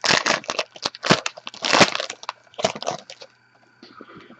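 Crisp rustling and crinkling as trading cards and their foil pack wrapper are handled, in quick irregular bursts that stop about three seconds in.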